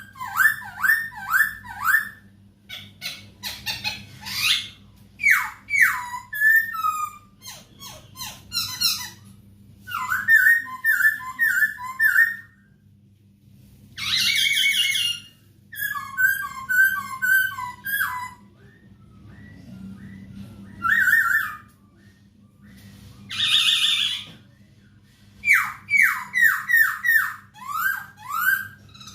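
Poksay Hongkong (masked laughingthrush) singing in bursts: runs of quick, falling whistled notes mixed with twittering trills, broken by two harsh chattering bursts about halfway and near the end, with short pauses between phrases. A faint steady low hum lies underneath.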